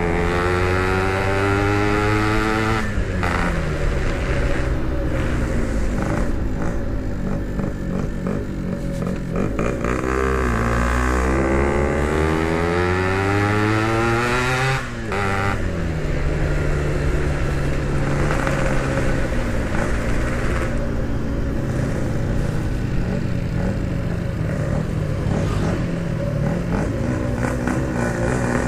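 Yamaha RX-King two-stroke single-cylinder engine under way through an aftermarket 'standart belek' exhaust, revving up and down as it is ridden. The pitch climbs repeatedly, and the revs fall sharply about three seconds in and again about fifteen seconds in.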